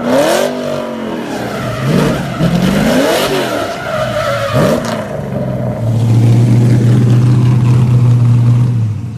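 NASCAR truck's V8 engine revving up and down repeatedly while the truck spins donuts, its rear tires screeching on the pavement. Near the end it holds a steady high rev for about three seconds, then drops off.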